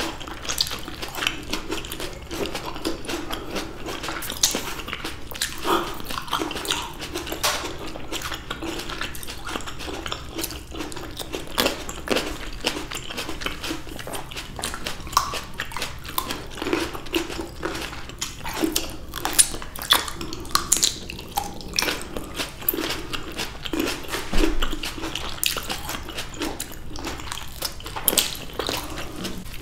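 Close-miked eating sounds of two people biting and chewing sweet red grapes: a steady stream of irregular clicks and crunches.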